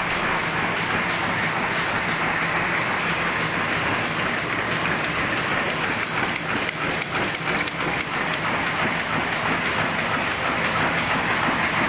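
Oliver 58 engine running steadily at high speed, with an even rhythmic clatter over a constant hum.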